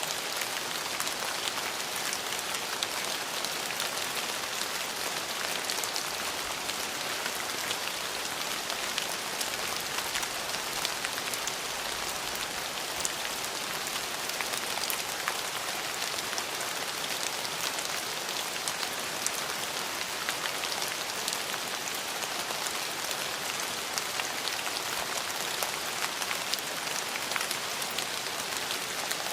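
Steady rain falling: an even hiss full of many sharp individual drop hits, unchanging throughout.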